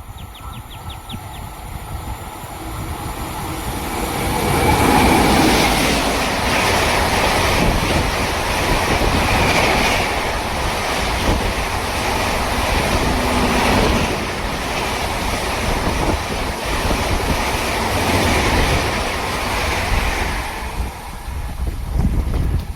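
Electric train passing at speed on the Indian Railways track: its rumble swells over the first few seconds, stays loud for about sixteen seconds while the train runs by, then dies away near the end.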